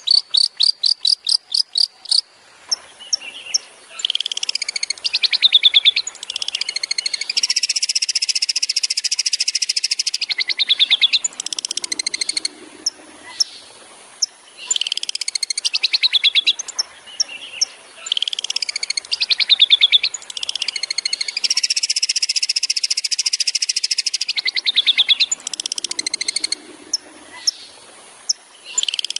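Long-tailed shrike (cendet) song in rapid-fire 'tembakan' style. It opens with a quick run of sharp repeated notes, about ten a second, then runs through cycles of fast sweeping trills and buzzy rattles. The sequence repeats about every 14 seconds, as a looped training recording would.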